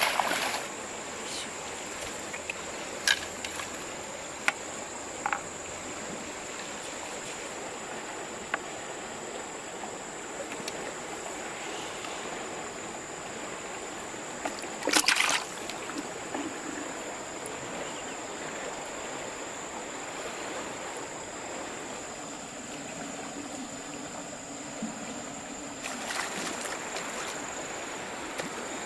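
River water flowing with a steady rush. A few short sharp knocks or splashes come in the first several seconds and a louder brief one about fifteen seconds in, over a thin steady high whine.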